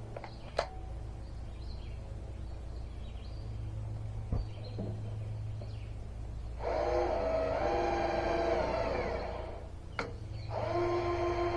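Cordless drill driving self-tapping screws: its motor whines for about three seconds, dropping slightly in pitch as the screw pulls tight, stops with a click, then starts again near the end. Before that, only a low hum and a couple of light clicks.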